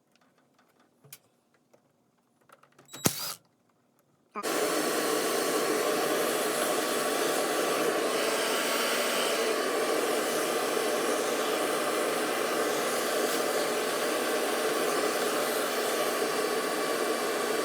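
A vacuum cleaner switches on about four seconds in and runs steadily, sucking dust and dirt out of a dehumidifier's condenser coil fins. A sharp click comes just before it starts.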